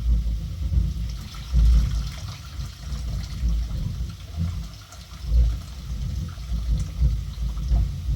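Wind buffeting the microphone: a low, gusting rumble that swells and drops every second or so.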